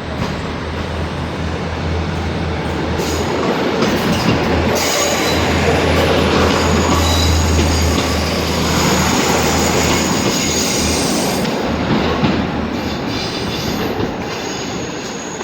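A train moving along the platform at close range: a steady low hum and rolling wheel noise, with high-pitched wheel squeal that is loudest about five to eight seconds in, then easing slightly.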